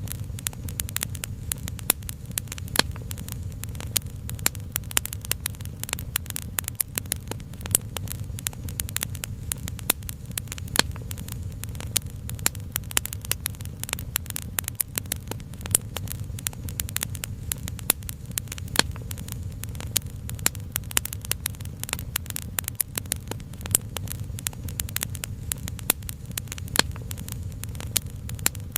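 Wood fire crackling: many irregular sharp snaps and pops over a steady low rumble.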